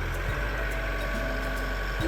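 A heavy machine's engine running steadily with a low rumble, under background music.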